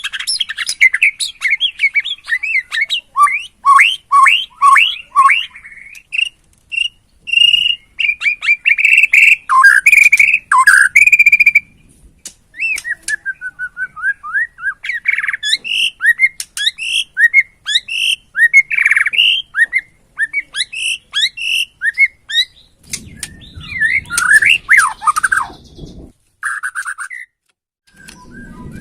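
Borneo murai batu (white-rumped shama) singing a long, varied song of rapid whistles, slurred notes and trills in phrases broken by short pauses. A low rumble sits under the song for a few seconds near the end.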